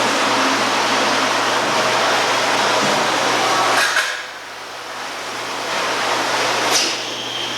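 Milking system running its sanitizing wash: the milker vacuum pump hums steadily while chlorinated hot water rushes through the pipeline. The rushing drops away suddenly about four seconds in and swells back, with one sharp click near the end.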